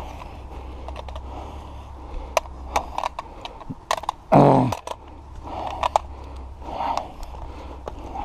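Sharp metallic clicks and clacks of a gun being cleared to show it unloaded. Just after four seconds in comes the loudest sound, short and falling steeply in pitch, over a steady low hum.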